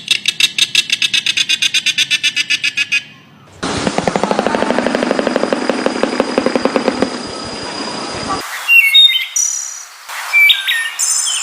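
Songbirds calling, in several recordings cut together: a fast run of repeated high chirps, then a dense rattling trill for about five seconds, then a mix of short whistled notes and pitch glides.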